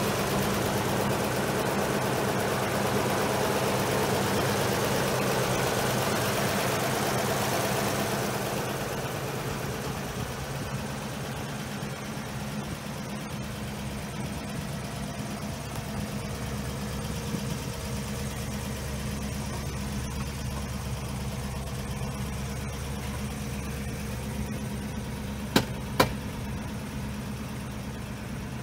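GAZ-24-24 Volga's V8 engine idling steadily, loud and full close to the open engine bay, then quieter and duller from about eight seconds in. Two sharp clicks close together near the end.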